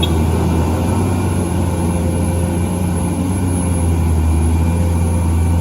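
A large vehicle engine running steadily at constant speed, a loud low drone that does not rise or fall.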